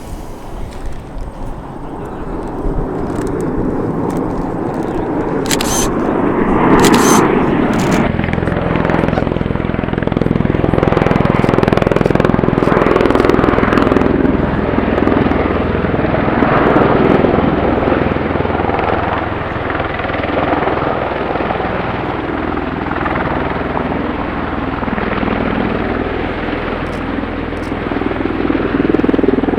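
Aircraft flying past, its engine noise swelling over the first few seconds and staying loud, with a steady low hum setting in about eight seconds in.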